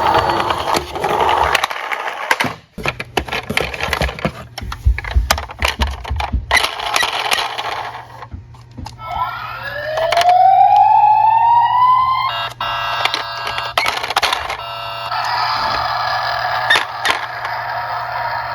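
A police-car siren wails in rising sweeps, first at the start and again about halfway, then gives way to a fast warbling tone and a steady two-tone sound near the end. Throughout, small toy cars clatter and knock as they roll down a slope.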